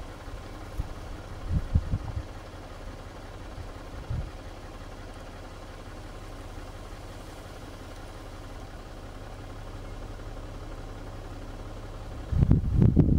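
Vehicle engine idling with a steady low hum, broken by low rumbling buffets on the microphone about two seconds in, briefly again at four seconds, and loudest near the end.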